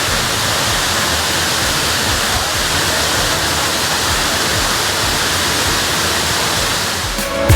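A big waterfall, Cherokee Falls, pouring steadily: an even, unbroken rush of falling water with no change in level.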